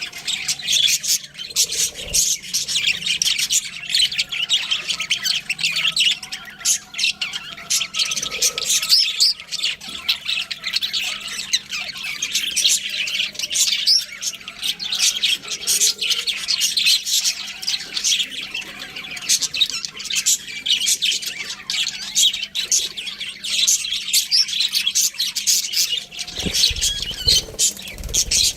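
Budgerigars chirping and chattering without pause, many quick high chirps and squawks overlapping. A short low rumble comes in about two seconds before the end.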